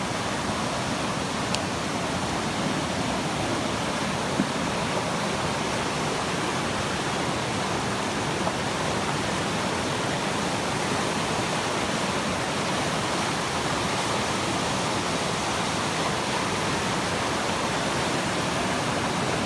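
Floodwater of a storm-swollen creek rushing past in a steady, powerful roar.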